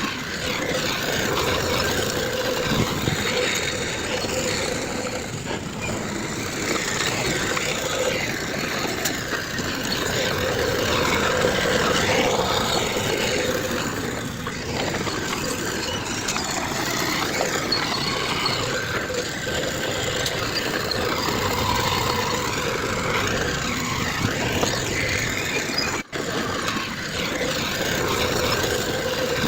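Heavy diesel earthmoving machinery running steadily, with a constant droning tone. The sound drops out abruptly for a moment near the end.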